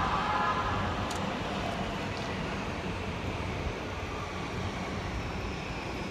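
Yamanote Line E235-series electric train running slowly into the station, a steady rumble of wheels on rails mixed with city traffic noise. A faint high whine falls slowly in pitch as the train slows on arrival.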